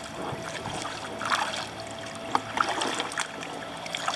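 Kayak paddling: the paddle blades dip and splash, with water dripping and trickling off them in short, irregular splashes.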